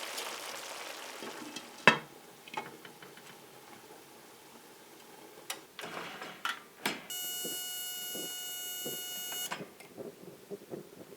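Kitchen handling noises with a sharp knock and a few clicks, then a steady electronic beep held for about two and a half seconds.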